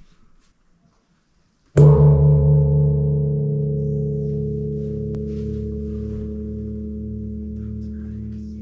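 A large Buddhist temple gong struck once with a beater, about two seconds in, then ringing on with a deep, wavering hum that slowly fades.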